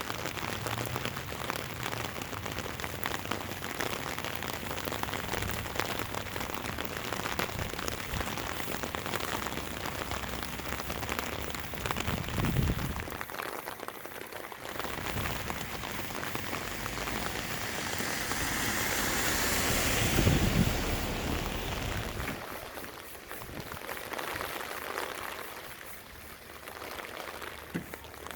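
Steady rain falling, an even hiss throughout, with a louder rushing swell that builds and peaks about two-thirds of the way through before easing off.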